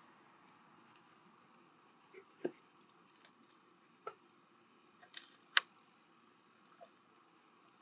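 Scattered sharp clicks and small taps of a freshwater clam shell being handled and worked open, with one louder crisp click a little past the middle.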